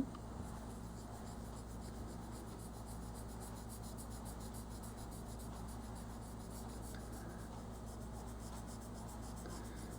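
Crayon rubbing on paper in steady, repeated colouring strokes, faint.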